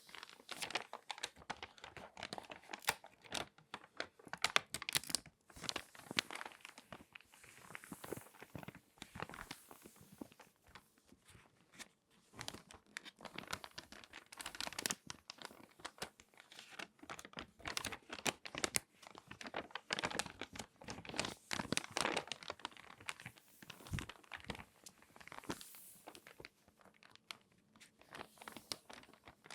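Glossy magazine pages crinkling and crackling as they are handled and folded by hand, a close, irregular run of sharp crackles and rustles.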